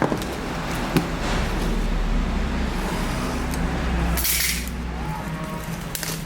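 Steady low vehicle or road-traffic rumble, with a couple of sharp clicks near the start and a short hiss about four seconds in, after which the rumble drops.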